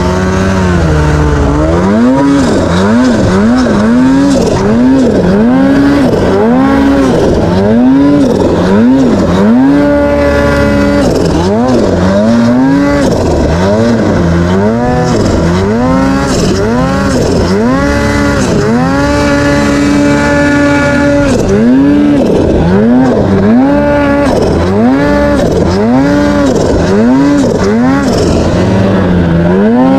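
Snowmobile engine revving up and down over and over, in short blips of about a second each with a couple of longer held revs, as the sled is worked out of a stuck spot in deep powder to climb back up the slope.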